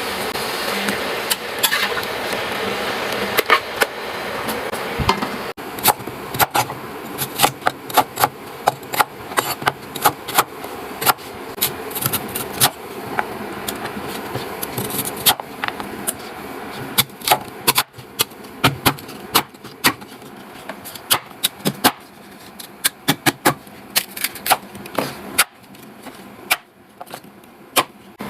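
Irregular series of sharp knocks and clicks, at times several a second, from manual farm work.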